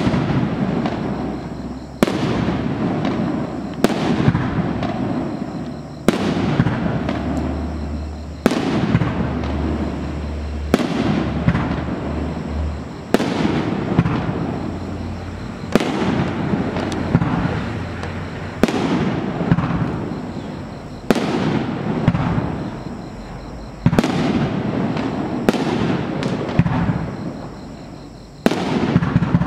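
A 49-shot, 1.75-inch consumer fireworks battery firing shell after shell. There is a sharp bang every two seconds or so, each followed by crackling and a rolling, fading rumble.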